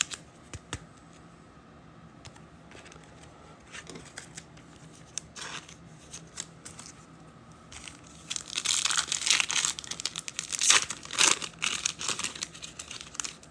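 Foil wrapper of a trading card pack being torn open and crinkled: a run of crackly rustling starting about eight seconds in and lasting several seconds, after a quiet stretch with a few light clicks.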